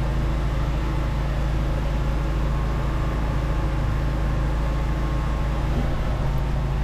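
Engine of a drain jetting machine running steadily at an even speed, a constant low hum.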